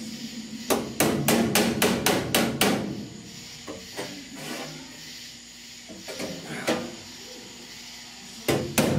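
Hammer blows on the sheet-steel inner roof patch panel, bending its edge in to fit: a quick run of about eight sharp strikes, roughly three a second, then a pause with a couple of light taps, and more strikes near the end.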